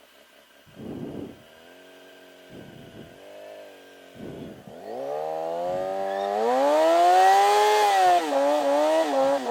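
Yamaha R6 inline-four engine idling, then revving up steeply about five halfway in and held high with quick throttle blips during a burnout, with a hiss of the spinning rear tyre over it. A few short low rumbles come before the revving.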